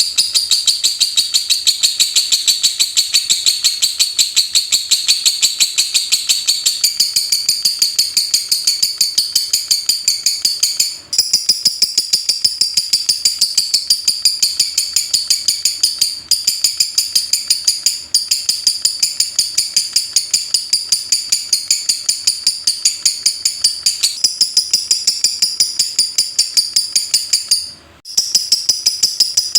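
Lovebird singing the 'ngetik' song: a long, rapid, machine-like run of high chirps at an even pace, with a few brief breaks and a longer one near the end.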